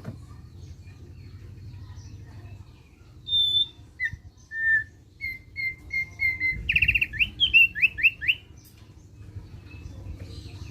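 Thick-billed heleia (opior paruh tebal) singing its chattering 'ngeriwik' song. A little over three seconds in, it gives a string of clear whistled notes, then a fast trill of rising sweeps that stops about two seconds before the end.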